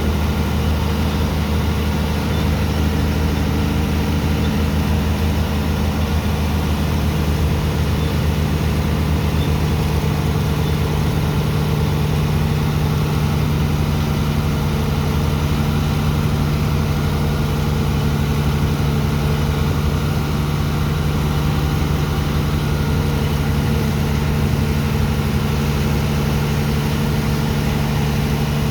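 Engine of a sand-unloading dredger running steadily under load, a constant low hum. About ten seconds in, its pitch shifts slightly, the deepest tone fading.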